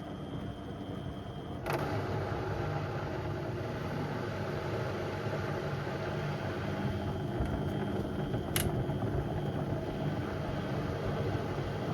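Beko WM74135 washing machine running with door mats in the drum: a steady motor hum that steps up and grows louder and fuller about a second and a half in. A single sharp click comes later on.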